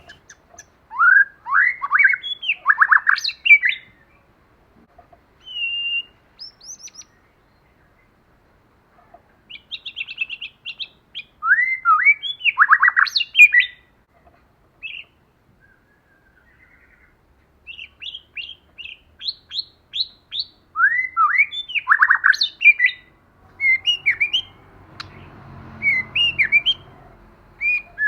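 White-rumped shama singing: three long bursts of song, each a run of rising whistles and quick repeated notes, with shorter scattered calls between them and after.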